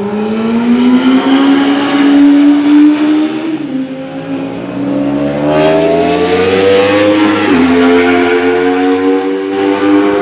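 Sports motorcycles running hard on a race circuit. The loud engine note climbs in pitch under acceleration and drops sharply with an upshift twice, about a third of the way in and again past the middle.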